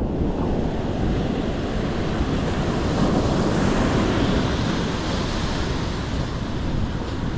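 Ocean surf breaking on the shore, mixed with wind rumbling on the microphone; the surf swells a little about three seconds in.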